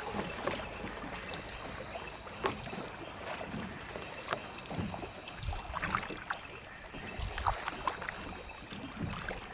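Water splashing and sloshing with irregular knocks, over a steady high-pitched hum.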